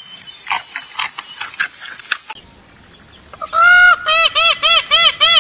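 Faint scattered clicks, then a bird calling loudly and repeatedly from about three and a half seconds in: short honking calls, about three a second.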